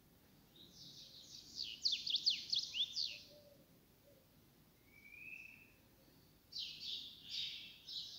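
A small songbird singing: a quick run of high chirps and downward-sweeping trills, a short single whistled note, then another run of chirps near the end.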